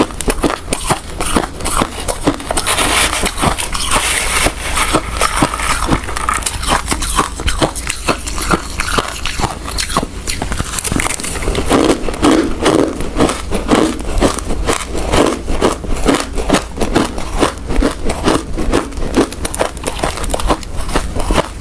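A person chewing hard ice: a dense, unbroken run of sharp crunches and crackles, several a second.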